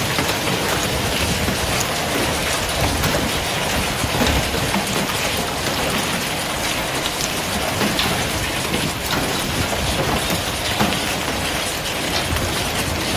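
Heavy storm downpour pelting hard surfaces: a dense steady hiss with many small sharp impacts.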